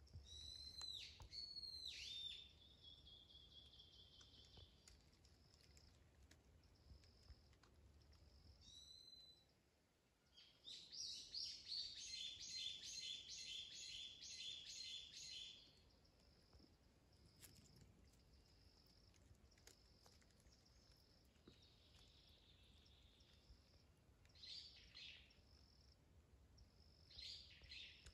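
Faint wild birdsong: a few quick sweeping calls near the start, a rapid trilled song of repeated notes from about ten to fifteen seconds in, and short calls again near the end, with a faint high chirp repeating every couple of seconds behind them.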